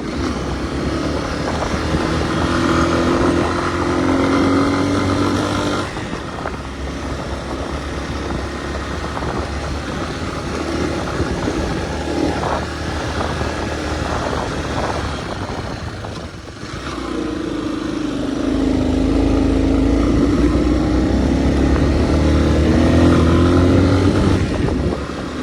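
Hartford VR motorcycle engine running under way, its pitch rising and falling with the throttle over rushing wind and road noise. It eases off about six seconds in and pulls strongly again past the halfway mark.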